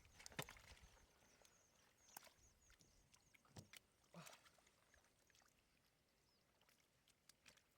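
Faint, sparse water splashes and sharp knocks, a handful of them in the first half, with faint high chirping behind.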